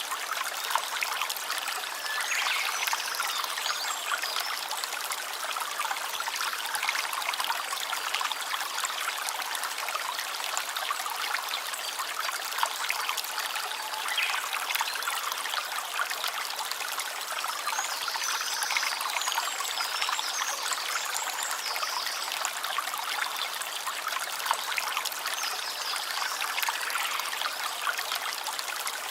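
A stream running steadily, an even rush of trickling water that never breaks off.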